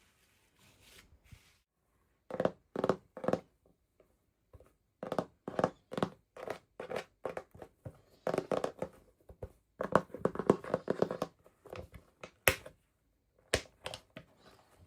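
Hands unboxing a toy, handling and tearing packaging: clusters of short crinkles, taps and clicks with brief pauses between them, and one sharp click near the end.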